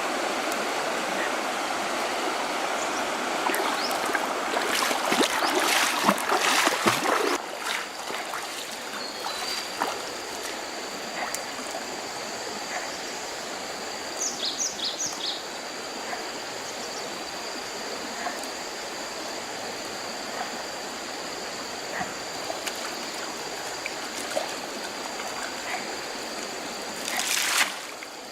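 Running water splashing for the first several seconds, then settling to a quieter steady trickle, with a brief louder splash near the end.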